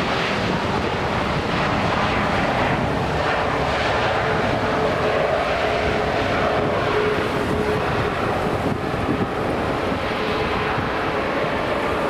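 Jet airliner's engines passing, a loud rushing roar with a faint engine whine that is strongest about halfway through.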